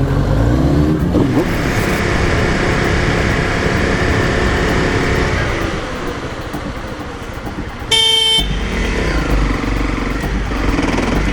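Engine and wind rumble of a motorcycle on the move, then a short horn blast about eight seconds in.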